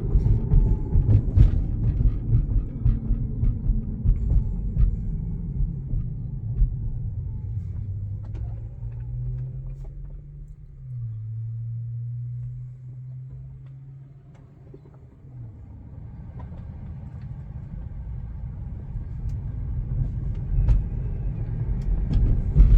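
Road and tyre rumble of a Tesla electric car heard from inside the cabin while driving. The rumble dies down through the middle, with a low steady hum for a few seconds as it is quietest, then builds again toward the end.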